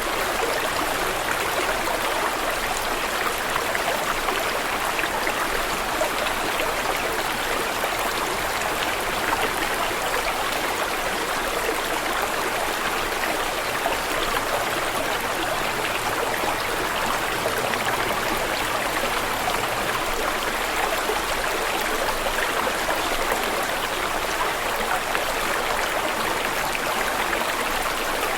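Running water flowing steadily, an even unbroken wash of sound with no pauses or changes.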